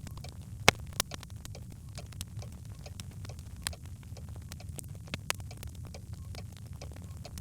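Birchwood fire crackling in a fireplace: irregular sharp pops and snaps over a steady low rumble, the loudest pop coming just under a second in with another right after.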